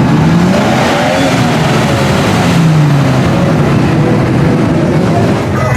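Off-road truck engine revving, its pitch rising and falling under a heavy rumble.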